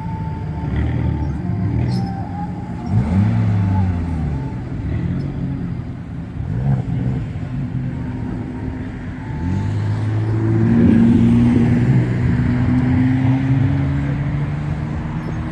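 Car engine revving at a standstill: a few short rev blips, then held at higher revs from about ten seconds in, its pitch slowly climbing.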